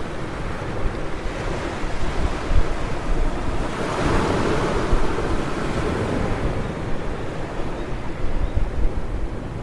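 Ocean surf breaking on a beach, with a wave crashing louder about four to six seconds in, and wind buffeting the microphone.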